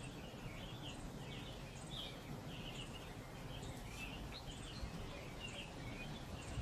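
Small birds chirping in quick repeated notes over a low, steady outdoor background noise, with a few faint snips of scissors cutting paper.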